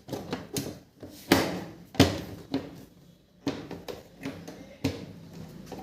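Irregular knocks and clacks of hard plastic washing-machine cabinet panels being handled and fitted, with the loudest two strikes a little over a second and about two seconds in.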